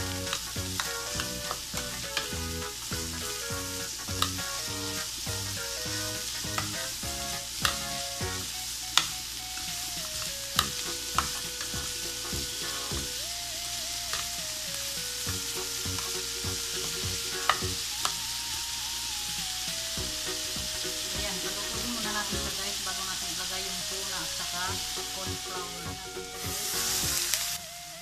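Diced carrots, potatoes and string beans sizzling as they sauté in a stainless steel pan, stirred with a spatula, with a few sharp knocks of the spatula against the pan. The hiss grows briefly louder near the end.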